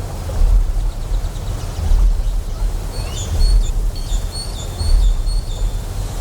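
Deep pulsing hum of a huge sci-fi generator, swelling about every one and a half seconds, over a steady wash of flowing water. In the second half, short high chirps repeat several times.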